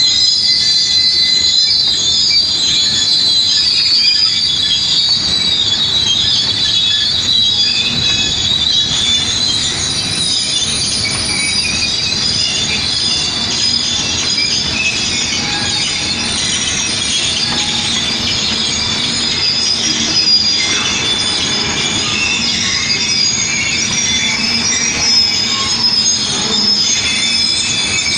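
Tank-car freight train rolling by, its steel wheels squealing continuously against the rails in several high, shrill tones over a steady rumble.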